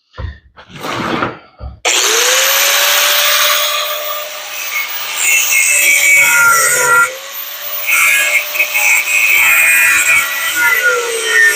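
Angle grinder with a cut-off wheel cutting through a metal bracket. The motor spins up with a rising whine about two seconds in, after a few handling knocks, then runs with a harsh hiss of metal being cut. Its pitch sags twice as the wheel bites under load.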